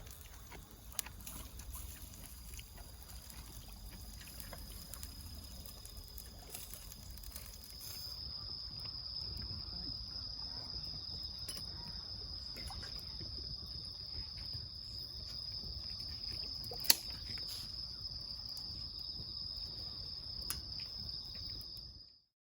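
An insect, likely a cricket, sings one steady high-pitched trill that grows louder about a third of the way in, over a low outdoor rumble. A few sharp pops break in, the loudest about seventeen seconds in.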